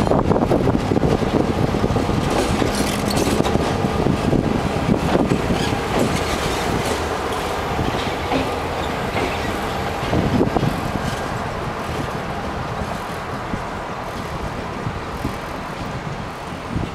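Excursion train rolling past on steel rails, a steady loud rumble that slowly fades.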